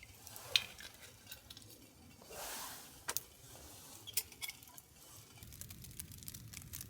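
Camp cookware and utensils being handled: scattered small clicks and clinks, with a short hiss about two and a half seconds in.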